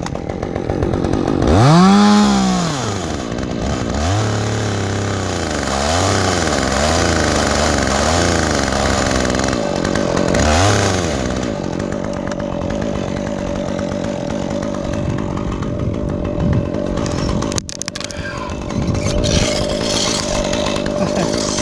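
Stihl two-stroke chainsaw revving up and falling back in a series of throttle blips, one big rev followed by several shorter ones, then running steadily at high speed for the second half.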